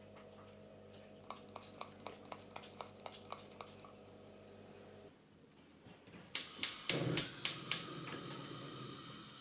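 Two runs of sharp, quick clicks, about four a second: a light run of about ten, then, after a short gap, a louder run of about six. A faint steady hiss follows.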